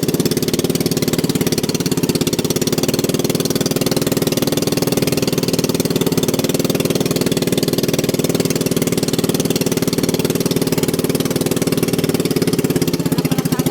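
A small engine running steadily at a constant speed, its firing heard as a fast, even pulse.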